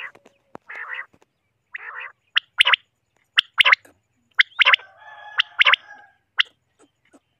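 Common quail calling: sharp, high call notes in quick pairs and triplets about once a second, mixed with softer, rougher low notes and a longer drawn-out call about five seconds in.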